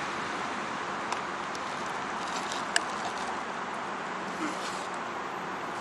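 Steady rushing noise of wind and tyres while riding a bicycle along a city street, with a few light clicks and rattles, one sharper click a little before the halfway point.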